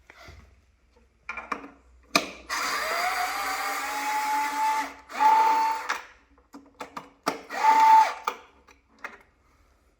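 Electric screwdriver backing out hex screws. One run of about two seconds spins up to a steady whine, then two shorter runs follow, with sharp clicks between them.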